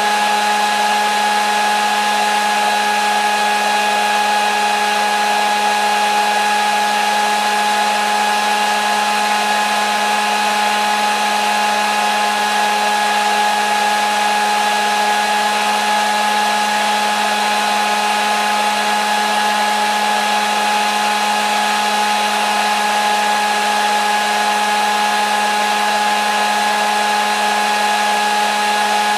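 Hair dryer running steadily: a constant rush of blown air with an unchanging motor hum and whine.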